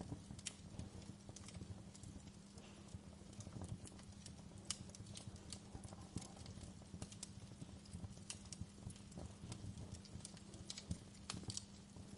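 Wood fire crackling in a fireplace: irregular sharp pops and snaps over a low rumble of burning logs.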